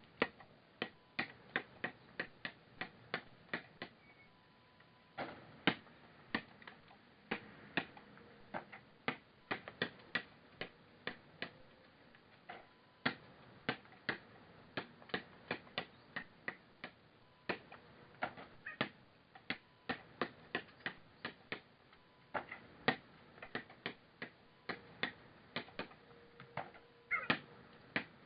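A long series of sharp, irregular clicks, about one to three a second, over a faint steady background.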